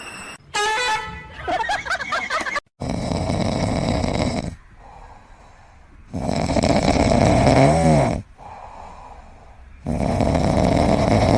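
A sleeping pet snoring loudly: three long snores about three and a half seconds apart, each followed by a quieter breath. Before them come a few short high warbling sounds.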